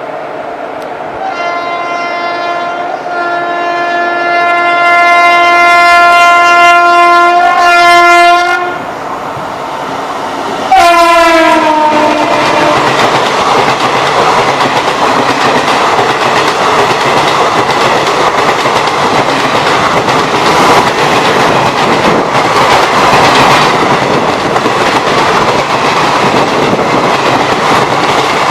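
Indian Railways electric locomotive sounding its horn in a long blast of about seven seconds, then a shorter blast whose pitch drops as it passes close by. The express train then rushes past with a steady loud rush and wheel clatter.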